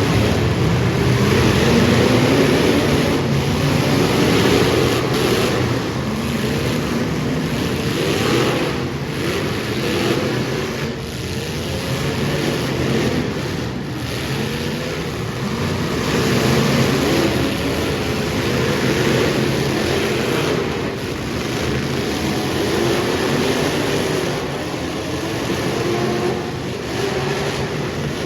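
Super stock race cars running laps together, their engines rising and falling in pitch as they circle the track.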